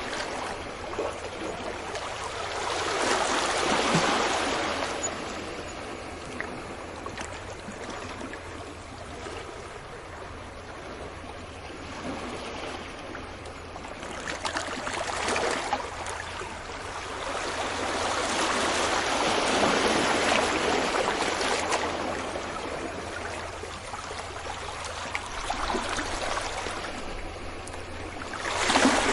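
Sea waves breaking gently on a beach, rising and falling in slow swells of surf, with a sharper break near the end.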